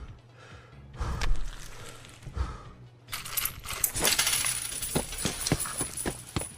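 Coins dropping and clinking onto a hard surface: a few scattered clinks, then about three seconds in a rapid clatter of many coins with a bright metallic ring.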